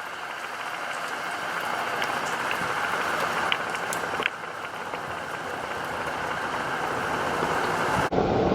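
Steady rain falling, slowly getting louder, with a few sharp taps of drops. The sound changes abruptly near the end.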